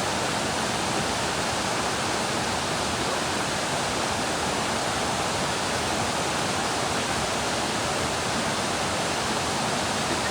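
Thomson's Falls waterfall: a steady, unbroken rush of falling water.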